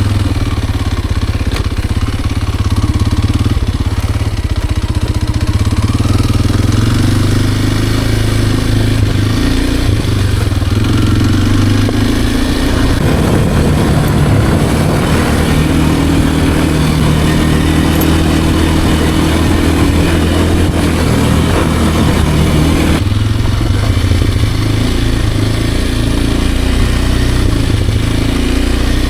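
Kawasaki KLX230R dirt bike's single-cylinder four-stroke engine running under way, its note shifting with throttle and gear, with clear changes about 13 and 23 seconds in.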